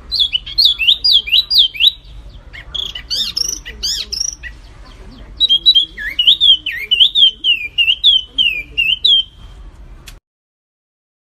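Songbird singing rapid runs of clear, falling whistled notes in two long phrases, with quicker chattering notes between them. The recording cuts off abruptly near the end.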